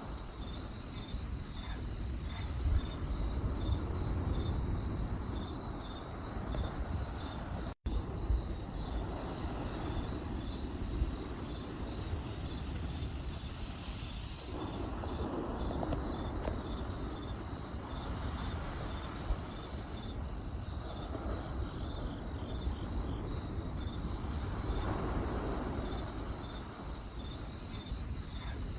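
Campfire crackling and rustling, with a few sharp pops, under crickets chirping in a steady, fast-pulsing high trill. The sound cuts out for an instant about eight seconds in.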